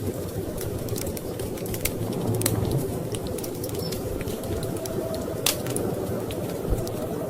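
Wood fire crackling with irregular sharp pops, the loudest about five and a half seconds in, over a steady low rumble of storm wind.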